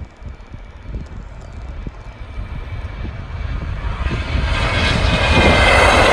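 Airliner engines growing steadily louder, swelling sharply about four seconds in as the aircraft comes close.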